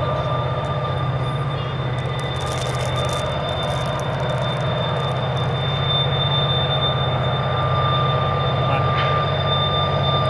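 Long double-stack intermodal freight train grinding slowly around a tight curve: a steady low rumble with continuous high-pitched wheel squeal.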